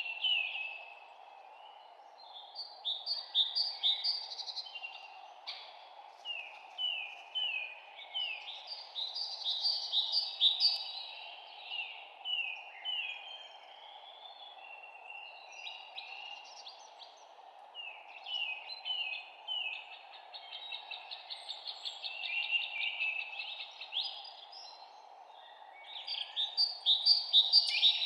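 Songbirds singing, phrase after phrase of quick, repeated, falling chirps, over a steady background hiss.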